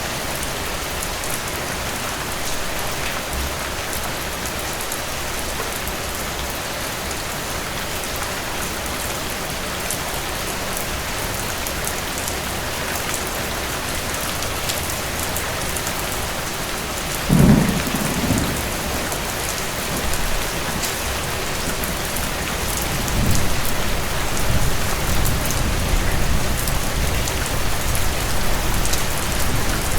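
Steady rain falling, with a sudden thunderclap about seventeen seconds in, then a long rolling rumble of thunder through the last several seconds.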